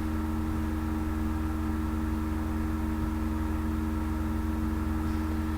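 Steady background hum with a faint even hiss, unchanging throughout: a low electrical hum with a couple of higher steady tones.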